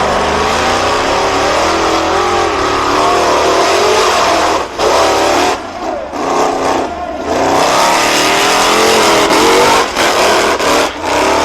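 BIGFOOT monster truck engine revving hard, rising and falling in pitch, with several brief throttle lifts in the middle and near the end.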